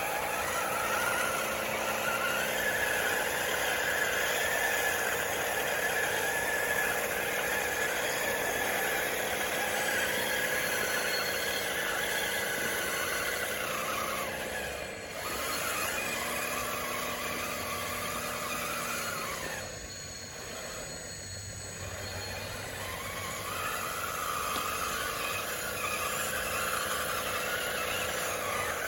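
DXR2 RC bulldozer's electric motors and gear drive whining steadily, the pitch wavering slightly with load. The whine dips briefly about halfway through, and eases off for a couple of seconds a little later.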